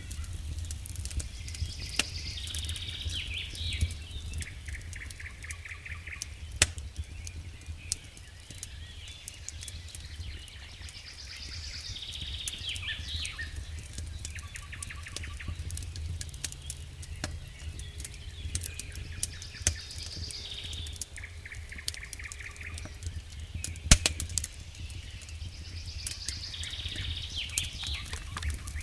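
Campfire crackling with scattered sharp pops, two of them loud, under a steady low rumble. A songbird sings the same short phrase four times, one every six to ten seconds.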